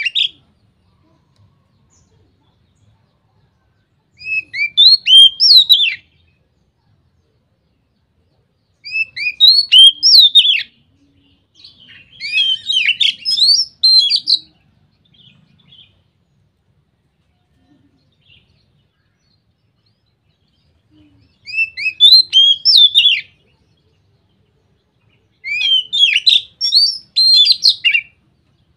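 Oriental magpie-robin (kacer) singing loud, full 'ngeplong' song: about five bursts of quick, sweeping whistled notes, each a second or two long, with pauses of a few seconds between them.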